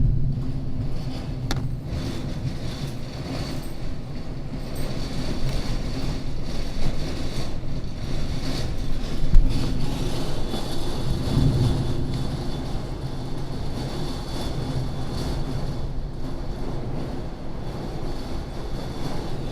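Heavy rain pouring down in a strong storm, a steady roar with a low rumble that swells and eases as the wind gusts, and a single sharp bump about nine seconds in.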